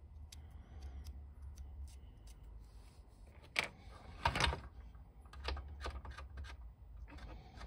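Light clicks and taps of small plastic parts and tools being handled on a workbench during a glue repair. There is a sharper click about three and a half seconds in and a short clatter just after four seconds.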